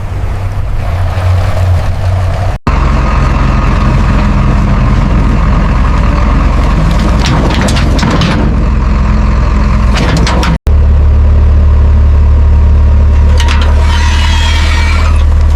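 A heavy vehicle engine running steadily, with a deep low rumble. The sound cuts out abruptly twice, about two and a half seconds in and again near eleven seconds. There are a few clicks in the middle and a burst of hiss near the end.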